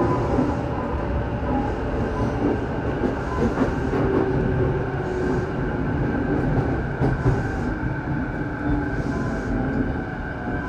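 JR Saikyo Line electric commuter train running at speed, heard from inside the car: a steady rumble of wheels on rail with whining tones over it. One tone slowly falls in pitch near the end.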